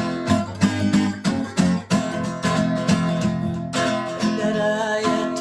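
Acoustic guitar strummed in a steady rhythm, the instrumental opening of a song before the singing comes in.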